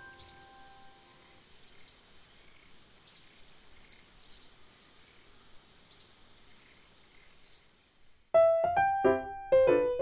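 A bird chirping, short high chirps about a second apart over a faint steady hiss, while the last held piano notes fade out. About eight seconds in, a piano piece starts abruptly and is the loudest sound.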